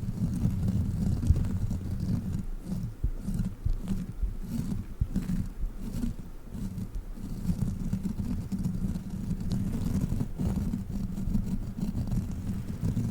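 Sticky crawler toy being handled against the microphone: a continuous low rumbling contact noise that swells and dips, with faint crackles at times.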